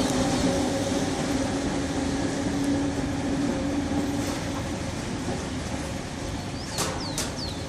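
Mafersa Série 1700 electric multiple unit pulling away and fading into the distance, its steady hum dying out about four seconds in under an even noise. A few short high chirps and clicks near the end.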